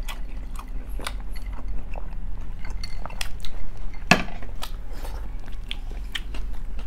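A person chewing and biting food, with scattered short clicks and crunches; the sharpest click comes about four seconds in.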